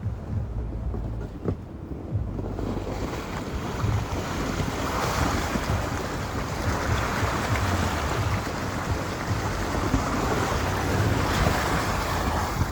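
Strong wind blowing in gusts that swell and ease, with a low wind rumble buffeting the microphone.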